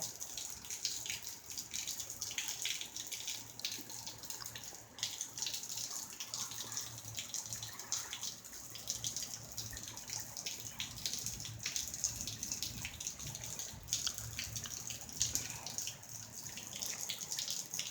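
Heavy rain falling steadily, with many close drips and splashes pattering through it.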